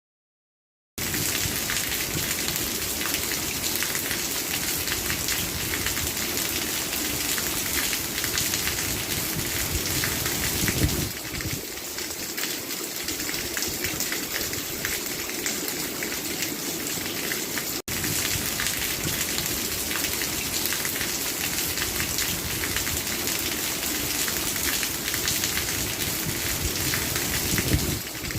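Steady heavy rain: a dense hiss of drops pattering on a surface. It starts after about a second of dead silence and cuts out for an instant about two thirds of the way through.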